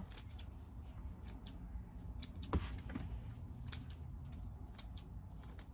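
Faint handling noise of hands working paper shred into a basket: scattered small clicks and rustles, one sharper about two and a half seconds in, over a steady low hum.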